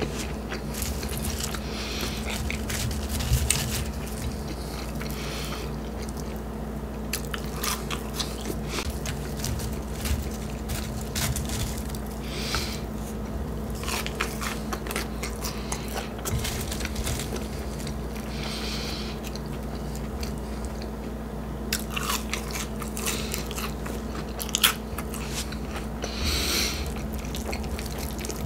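A person chewing and biting fast food close to the microphone, with crunchy bites and many wet mouth clicks throughout. A steady low hum runs underneath.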